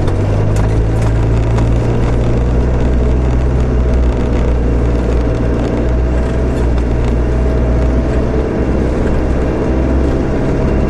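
Land Rover four-wheel drive's engine running at a steady low drone while driving slowly, heard from inside the cab, with a few light rattles.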